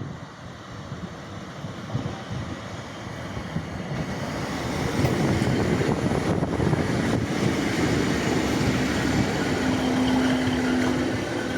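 Passenger train running into the platform, its running noise growing louder from about four seconds in and then holding steady, with a brief steady tone near the end.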